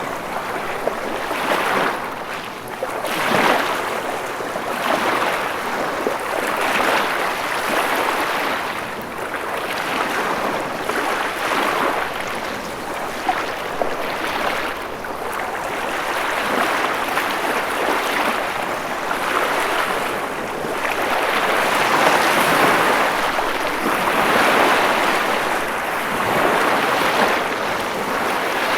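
Ocean waves breaking and washing on a shore, a continuous rush of surf that swells and fades every few seconds.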